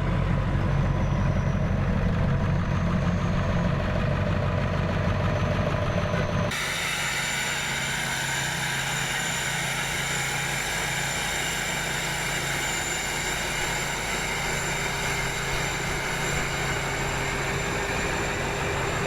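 Diesel truck engines idling. About six seconds in the sound cuts abruptly to a steadier engine noise with less rumble and a thin high whine over it.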